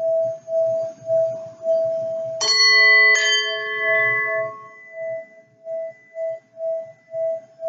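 A crystal singing bowl sounds one sustained tone that swells and fades about twice a second. About two and a half seconds in, two quick strikes of a bell-like instrument ring out less than a second apart and die away over a couple of seconds.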